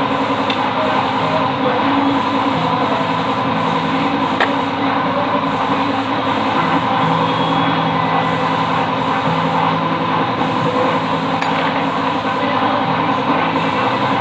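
Engine running steadily: a continuous mechanical drone with no breaks.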